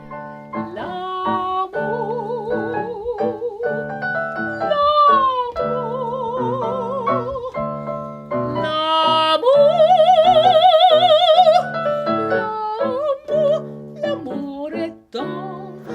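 A soprano sings an operatic phrase with wide vibrato over piano accompaniment, rising to a loud held high note a little past the middle.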